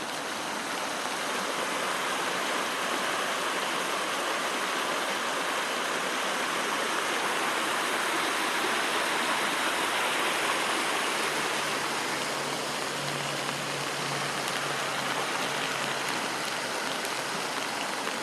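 Steady rushing of rainwater runoff flowing in a stream, with moderate rain falling; it swells a little toward the middle.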